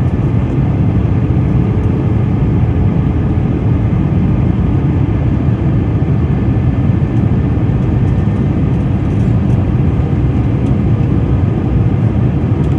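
Steady engine and airflow noise inside an airplane cabin during the approach to landing, a constant deep rush with faint steady tones over it.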